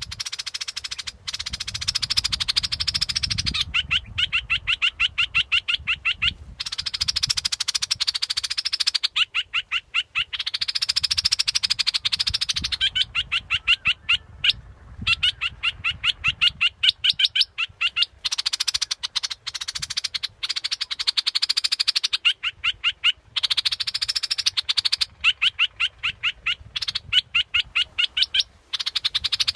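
A 'dok taeng' bulbul calling, used as a decoy call: fast runs of short, evenly spaced chattering notes repeated over and over in bursts of a few seconds with short breaks.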